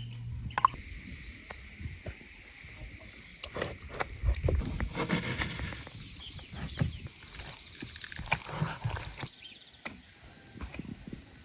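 Outdoor ambience: birds chirping now and then over irregular clicks and knocks, with a few duller thuds around the middle.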